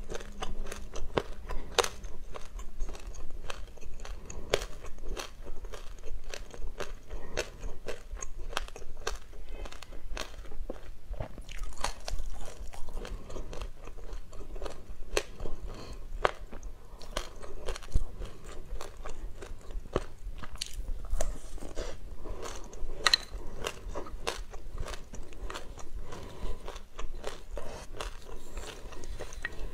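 Close-up chewing of mouthfuls of black and white sesame seeds mixed with passion fruit pulp: a dense, steady run of small crunches and crackles, several a second.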